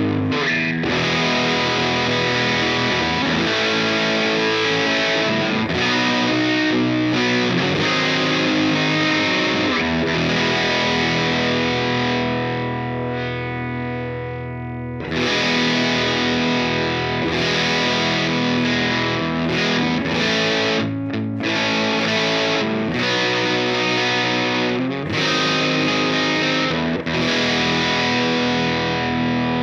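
Electric guitar chords played through a 1979-spec modified ProCo RAT distortion pedal, with a thick, distorted tone. After a short softer stretch about halfway through, the sound comes back brighter and fuller, as the pedal's controls are changed.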